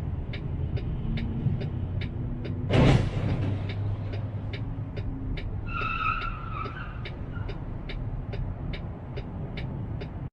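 Car road and engine noise with a steady ticking about twice a second. About three seconds in there is a short, sudden loud noise, and around six seconds a tyre squeals briefly.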